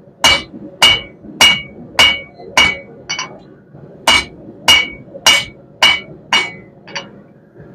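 Blacksmith's hammer striking hot half-inch round steel bar on an anvil, with a bright ring at each blow. About two blows a second in two runs of about six, a short pause between them, and each run ending on a lighter tap.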